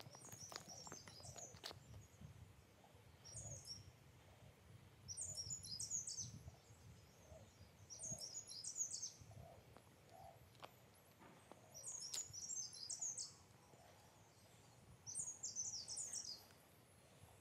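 A songbird sings short, high twittering phrases of about a second each, repeated every three seconds or so. Footsteps on a paved path are heard in the first couple of seconds.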